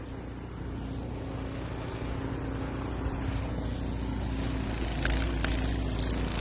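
Gasoline snowblower engine running steadily, slowly growing louder, with a couple of light clicks about five seconds in.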